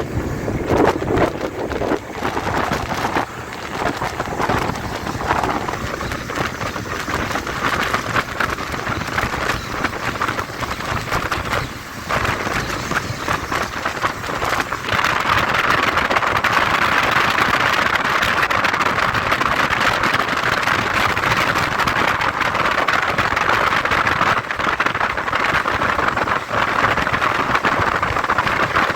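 Steady rush of wind and road noise from a moving motorcycle, getting louder about halfway through.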